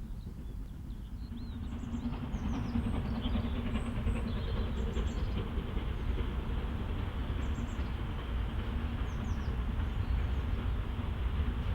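Steam train running past on the line, a steady low rumble that grows louder about two seconds in and then holds.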